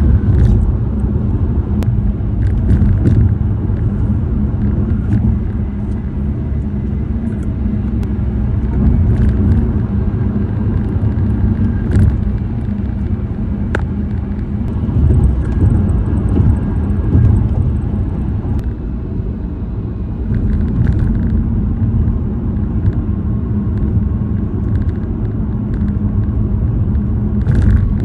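Car tyres rolling over bridge and road pavement, heard inside the car: a steady low rumble broken by a few sharp knocks, as the wheels cross bridge joints.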